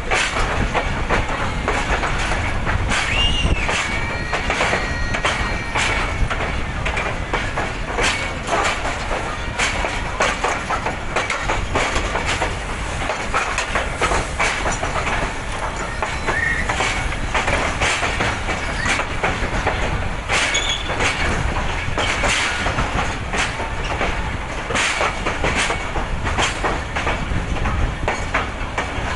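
Passenger train rolling into a station: a steady rumble of steel wheels on the track, with irregular clicks as the wheels cross rail joints and a few short, high wheel squeals.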